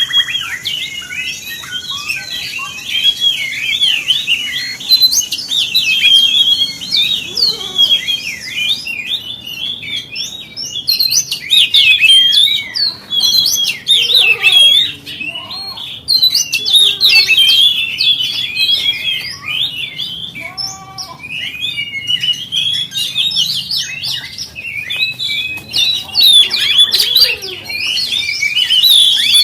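Oriental magpie-robin (kacer) singing a fast, continuous stream of varied chirps, whistles and trills. This is the kind of song used as a lure to provoke other magpie-robins into singing.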